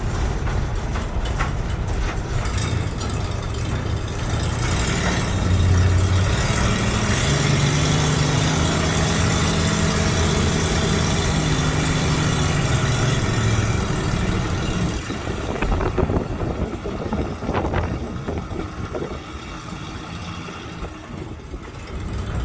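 Divco bread truck's swapped-in Ford 302 V8 running. The revs pick up about four seconds in and stay up until roughly fifteen seconds in, then ease back, with a few knocks after that.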